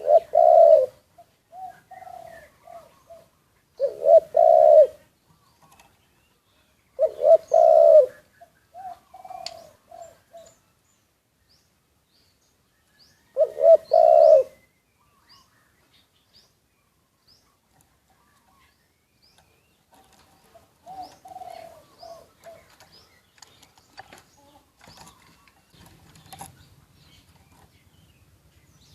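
Spotted doves cooing: a loud phrase comes every three to six seconds, each a strong two-note coo followed by a few softer coos. Fainter cooing follows later, with small chirps from other birds scattered throughout.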